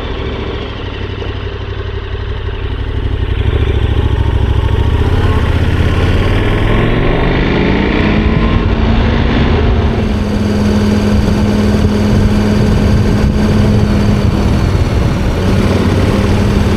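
KTM 1290 Super Adventure R's V-twin engine under way. It picks up revs, rising in pitch about five seconds in, then holds a steady pitch.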